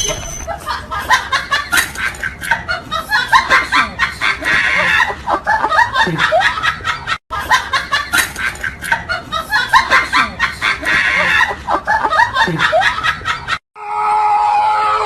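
Rapid, pulsing cackling laughter. The same passage plays twice with a brief break between. Near the end it cuts to a different sound with steady held tones.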